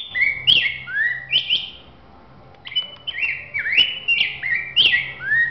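Rey del bosque (black-backed grosbeak) singing: a rich, fast warble of short slurred whistled notes, with a brief pause around two seconds in before the song resumes.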